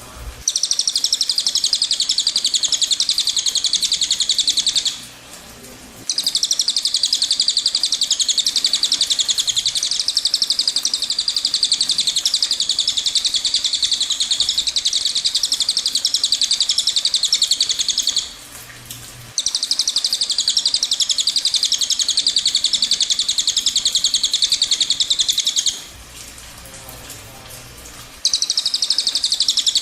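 A cililin bird singing its long rolling trill ('ngerol panjang'): very rapid, even, high notes held for several seconds at a time, in four long bouts with short pauses between.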